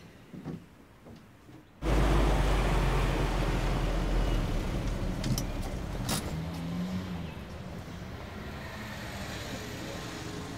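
Car engine running, heard from inside the cabin. It comes in suddenly and deep about two seconds in, and after a click around six seconds in it eases to a quieter, steady running.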